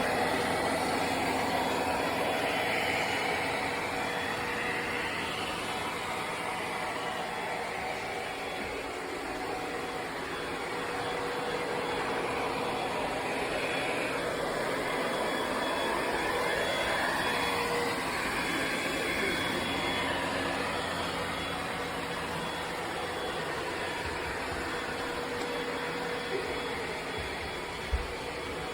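Ecovacs Deebot X9 Pro Omni robot vacuum running: a steady motor and fan whir whose tone shifts slowly as it moves while picking up hair. A brief knock near the end.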